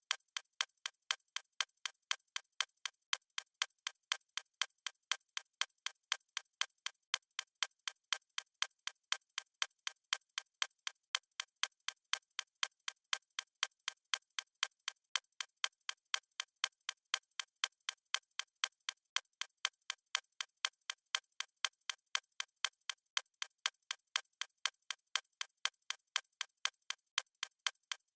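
Fast stopwatch ticking sound effect: quick, even ticks at a steady rate, several a second.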